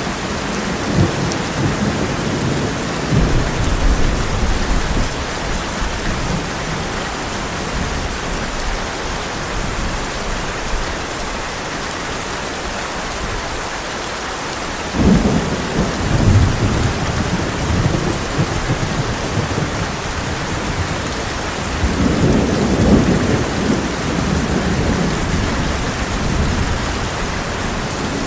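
Heavy rain pouring steadily on a tin roof, with rolling thunder: low rumbles in the first few seconds, a sudden clap about halfway through that rumbles on for a few seconds, and another rumble swelling up later on.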